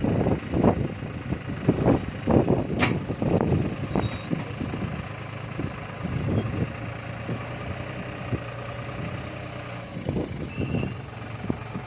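Tractor engine running. Loud, irregular pulses come through the first four seconds, with a sharp click near three seconds in, before the engine settles to a steadier idle.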